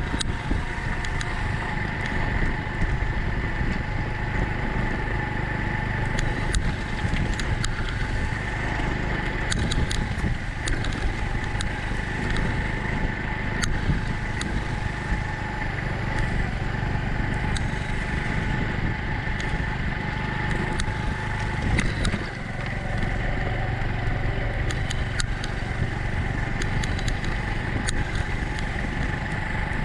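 Honda Cub's small single-cylinder four-stroke engine running steadily while the bike is ridden, with scattered clicks and rattles. The engine sound dips briefly once, about two-thirds of the way through.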